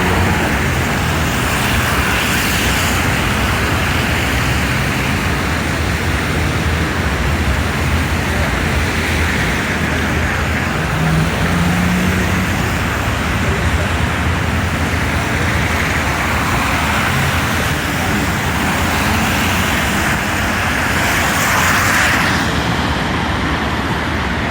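Steady city street traffic noise, with passing cars swelling up slightly a couple of times.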